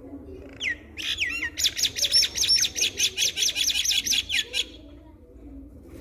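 A bird calling loudly: a few swooping whistled notes, then a fast, even run of repeated down-slurred whistles, about four or five a second, which stops about a second before the end.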